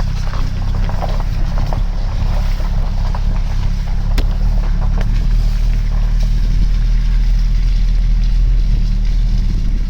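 Steady, loud low rumble with a few faint ticks, one sharper click a little after four seconds in.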